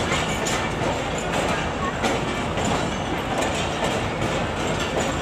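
Express passenger train rolling by on the rails: a steady rumble with wheels clattering over the track.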